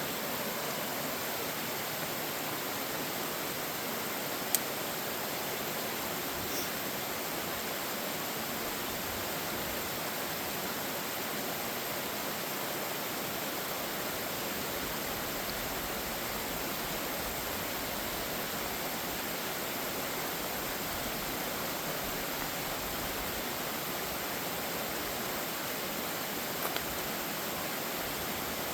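Waterfall rushing: a steady, unbroken hiss of falling water. A single sharp click sounds about four and a half seconds in.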